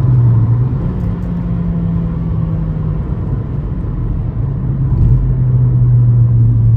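Vauxhall Astra GSi turbo engine droning under way, heard from inside the cabin over tyre and road noise. The engine note steps up about a second in, falls back near three seconds, and gets louder from about five seconds as it pulls again, with no misfire: the car is running much better on boost.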